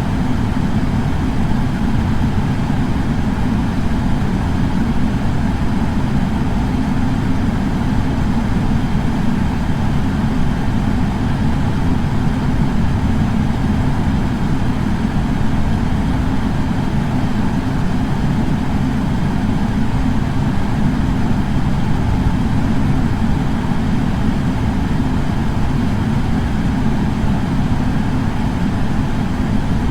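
Air purifier running steadily: an even, low fan rumble and whoosh of moving air that does not change.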